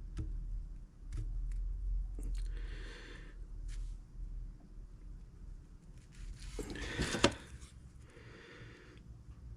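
Small handling noises at a workbench while eyeglasses are glued: a few light clicks, then brief rustling scrapes, the loudest about seven seconds in, over a steady low hum.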